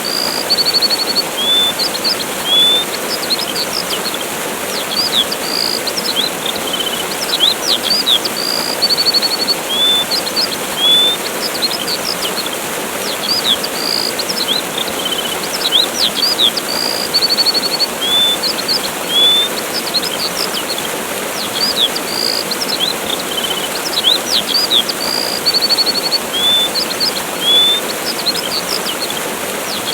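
Waterfall rushing steadily under small birds chirping, with quick upward sweeps and short trills. The same calls come round again about every eight seconds, as in a loop.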